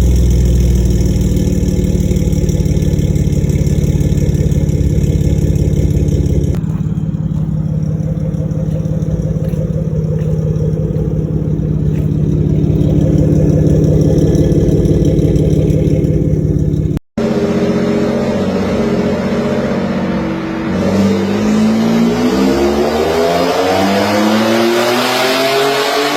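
2018 Ford F150's 3.5-litre twin-turbo EcoBoost V6, fitted with catless downpipes and a side-exit exhaust, running at a steady idle. After a cut it accelerates hard, its pitch climbing steeply.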